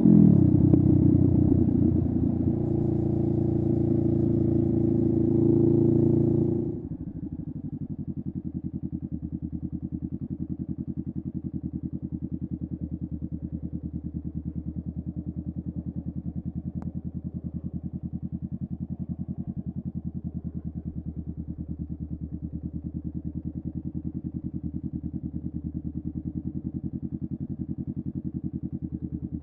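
2023 Honda Rebel 500's parallel-twin engine through a Vance and Hines upsweep exhaust. It runs at low revs with the pitch falling at first, then drops to a steady idle about seven seconds in, with an even pulse.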